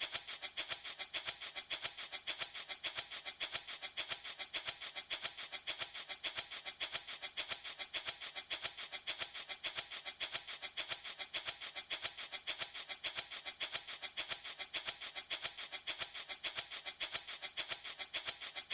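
Handmade baby rattle shaken steadily in an even rhythm of about four to five shakes a second, a bright, hissy rattle of small beads.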